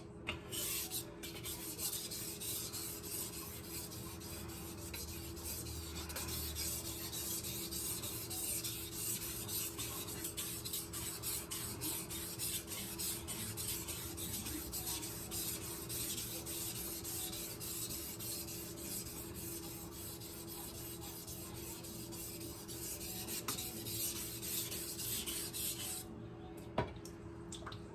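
Steel kitchen-knife blade being stroked back and forth over a whetstone: a continuous gritty scraping that stops about two seconds before the end, followed by a single click.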